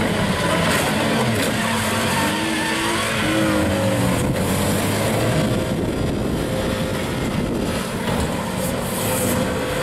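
Car engines running hard, their pitch rising and falling as they rev.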